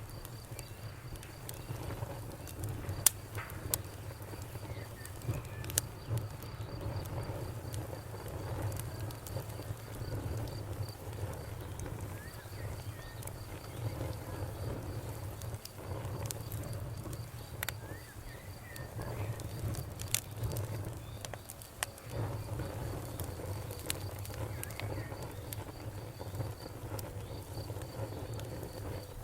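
Campfire burning with a steady low rumble and scattered sharp pops and crackles, a few louder snaps standing out. A faint, even, high chirping runs behind it throughout.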